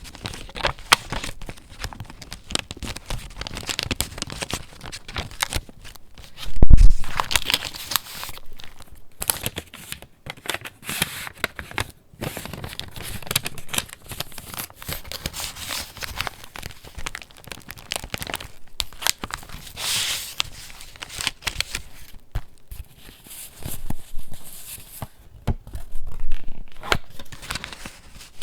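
Paper pages of a handmade junk journal being handled and turned, with continuous crinkling and rustling full of small crackles. A loud thump comes about a quarter of the way through.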